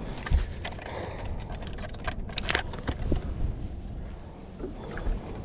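Scattered knocks and clicks over a low, steady rumble, the sound of handling aboard a bass boat.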